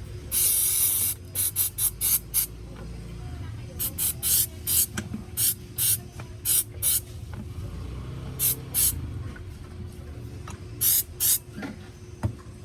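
Aerosol contact cleaner sprayed onto a starter motor's carbon brushes to flush away worn carbon dust: one hissing burst about a second long, then about seventeen short squirts, mostly in quick pairs and clusters.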